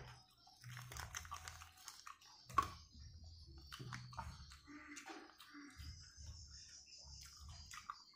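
Close-up eating sounds: irregular wet mouth clicks and smacks as squid cooked in black ink is chewed with the mouth open, with the odd sharper click of fingers on the plate, the loudest about two and a half seconds in.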